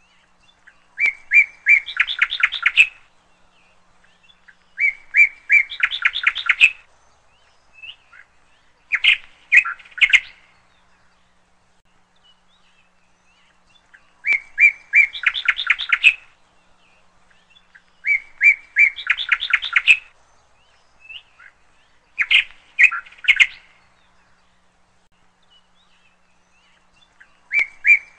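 A bird chirping in short phrases of rapid, high notes about two seconds long, repeated roughly every four seconds.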